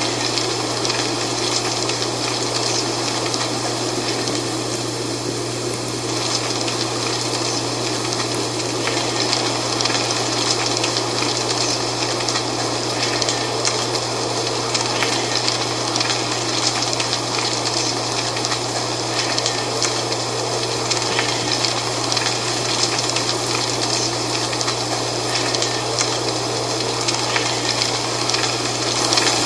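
Dry fall leaves rustling in a steady wind, a dense crackling hiss with a constant low hum underneath.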